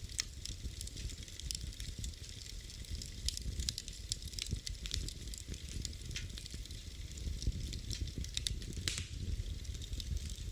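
Fireplace fire crackling: frequent irregular sharp pops and snaps over a low steady rumble of the flames.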